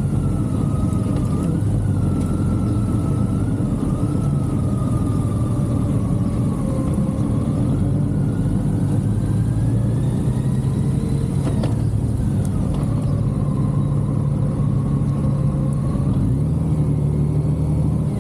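Motorcycle engine running while riding, its pitch drifting gently up and down with the revs and picking up near the end.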